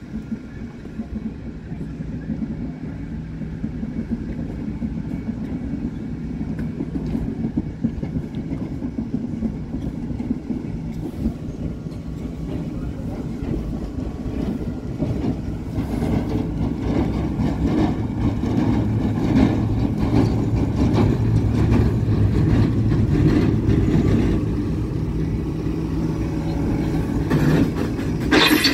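Diesel engine of a road-rail vehicle running on the railway track, growing louder as it comes up to the crossing. Just before the end there is a brief sharp hiss.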